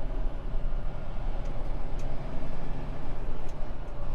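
Semi truck's diesel engine and road noise heard from inside the cab while rolling slowly: a steady low rumble with a faint hum above it and a few faint ticks.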